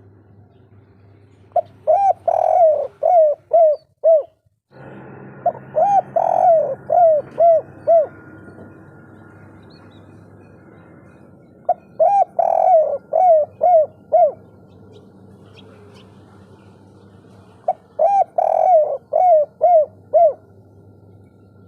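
Spotted dove (tekukur) singing its 'kuk 3' song: four cooing phrases about six seconds apart, each a quick run of arching coos ending in short clipped notes. A faint steady hum runs underneath.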